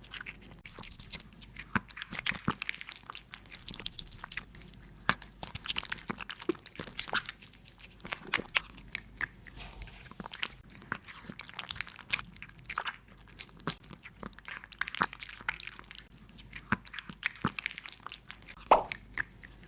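A cat chewing and crunching its food: irregular sharp crunches, several a second, with one louder crunch near the end.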